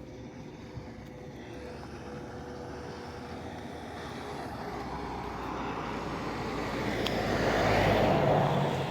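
A motor vehicle passing close by, growing steadily louder to a peak near the end, then starting to fade.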